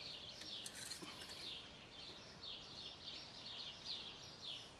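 Birds chirping: short, falling chirps repeated a few times a second, faint over a quiet background hiss.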